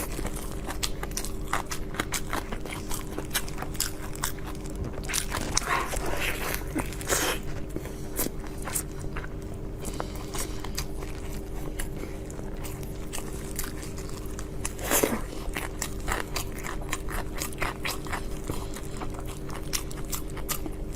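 Close-miked eating: a person biting and chewing soft meaty food, with many irregular wet mouth clicks and smacks and a few louder slurping bites.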